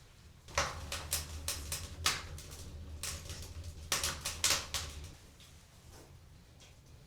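A quick run of sharp clicks and knocks, about ten in four seconds, over a low hum, stopping about five seconds in.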